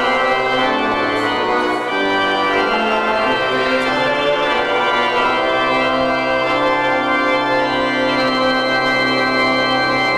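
Church organ playing sustained chords that change every second or so.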